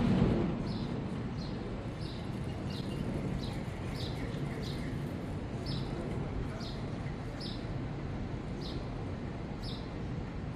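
A small bird chirping over and over: short, high chirps that drop slightly in pitch, about one or two a second at uneven spacing. Beneath them is a steady low background rumble, which swells louder for the first half second.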